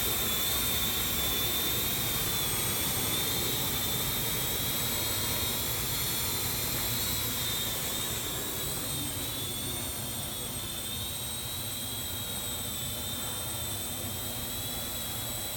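Parrot quadcopter drone flying, its propellers giving a steady high whine that wavers slightly in pitch. It grows a little quieter about halfway through.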